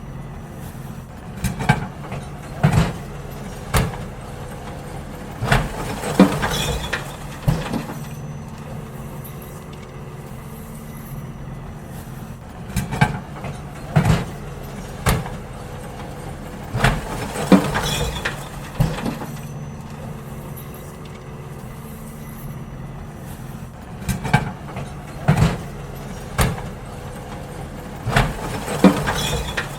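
Garbage truck engine running steadily, with repeated bursts of loud bangs and clatter as wheelie bins are emptied into the hopper, about six bursts a few seconds apart.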